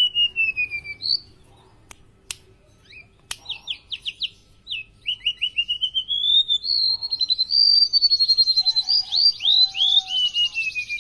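Golden-bellied gerygone singing: high, thin whistled notes that slide downward, building after a short pause into a busy run of falling whistles and rapid trills. Two sharp clicks sound in the pause.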